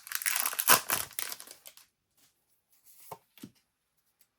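Crinkling and tearing of a foil trading-card booster pack wrapper being handled and torn open, for about the first two seconds, followed by quiet with a couple of faint light knocks.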